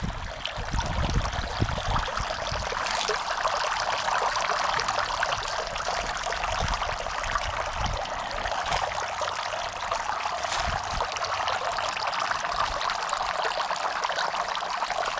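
Garden fountain water trickling and splashing steadily. Occasional low rumbles of wind buffet the microphone, strongest in the first few seconds.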